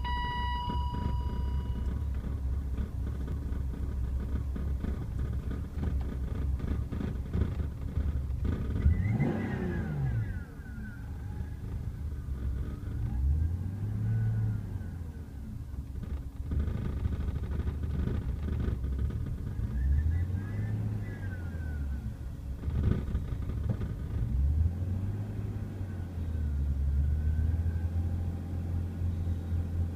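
BMW E36 M3 straight-six idling roughly and low. It is revved once about nine seconds in, then the revs rise and fall a few more times. The owner describes a bouncing idle below 500 rpm that dips when revved and sometimes stalls, and suspects a vacuum leak.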